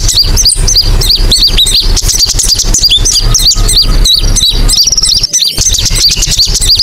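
Konin bird lure call (pikat): a dense, loud run of short, high hooked chirps, about three or four a second, over a steady low hum. It breaks off briefly about five seconds in.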